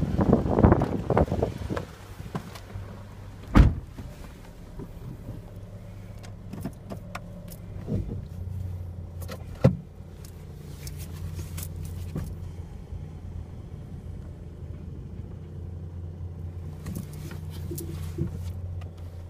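Toyota Townace Noah's engine idling with a steady low hum, heard from inside the cabin. Wind on the microphone at first, then a sharp thump of a car door shutting about three and a half seconds in, and another knock near ten seconds.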